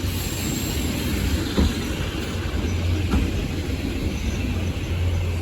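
Train running, a steady low rumble with two short knocks about one and a half and three seconds in.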